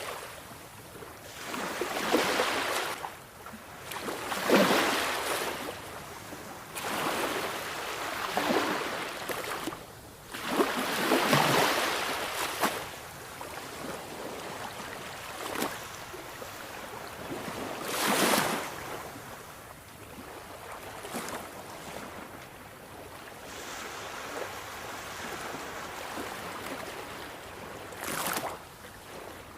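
Sea waves breaking and washing on the shore: repeated rushes of surf that swell and fade every few seconds over a steady background hiss, with the strongest surges in the first half and a calmer stretch near the end.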